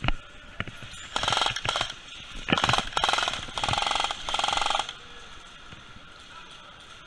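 Airsoft electric gun firing in full auto: about four rapid bursts of fast, even mechanical clicking from the gearbox, preceded by a couple of single sharp clicks.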